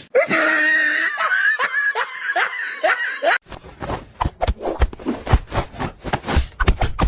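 A person laughing in short repeated bursts. After an abrupt change, a quick series of knocks or thumps, about two or three a second.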